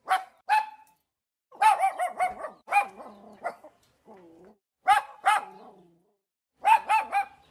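Boston Terrier barking: sharp, high-pitched barks in quick bursts of two to four, with silent gaps between them and a short whine about halfway through.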